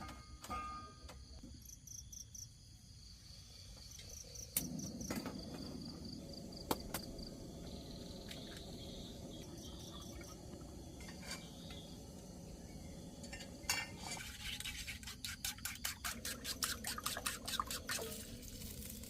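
Insects chirping in pulsed high trills, with scattered clinks and a burst of rapid clattering near the end, like utensils working in cookware over a steady background hiss.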